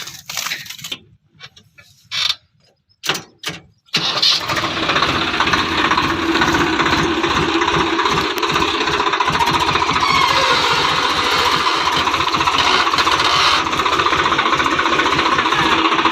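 After a few seconds of short broken sounds, a Swaraj 735 XT tractor's three-cylinder diesel engine comes in about four seconds in and runs loud and steady, with a rapid even beat of firing pulses.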